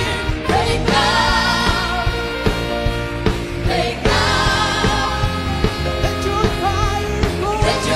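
A group of voices singing a gospel song over a band with a steady drum beat.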